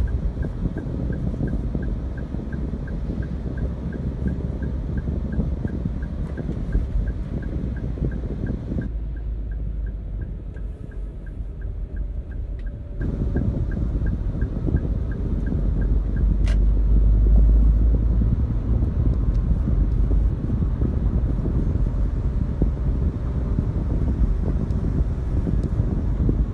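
Wind buffeting the microphone over a vehicle's running rumble, louder about two thirds of the way through. A faint, steady ticking about three times a second runs through the first half and stops, and a short high sound comes once past the middle.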